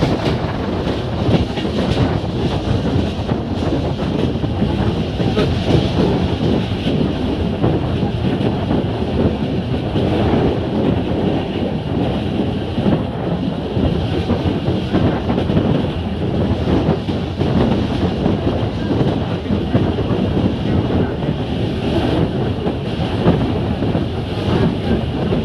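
Train running along the track: a steady rumble of wheels on rails, with scattered clicks from the wheels and rails.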